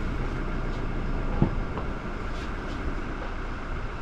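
Strong gusty wind buffeting the microphone: a steady rushing rumble, with one brief knock about a second and a half in.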